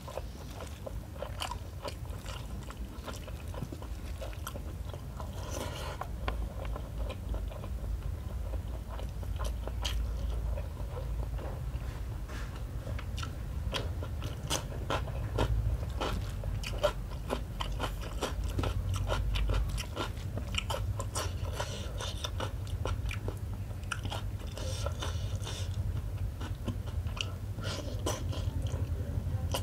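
A person chewing and biting a hand-eaten meal of rice, smoked tuna curry and eggs close to the microphone: wet mouth clicks and crunches, with crisp bites of raw cucumber.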